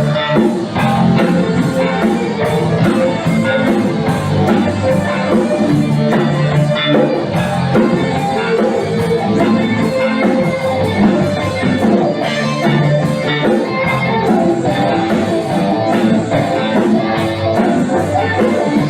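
Rock band playing an instrumental passage with no singing: guitar over a steady drum beat.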